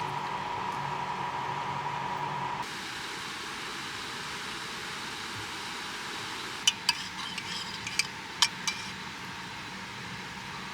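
Steady rushing noise of rain and river water. A low hum and a steady high tone stop abruptly about two and a half seconds in. Past the middle come about five sharp clinks of dishes being handled after a meal.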